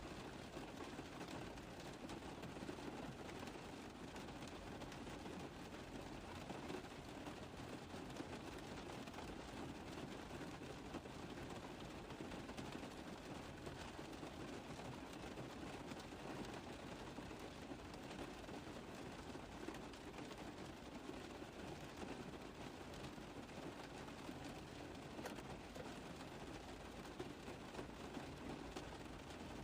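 Rain falling steadily on a car roof: a dense, even patter of drops that does not let up.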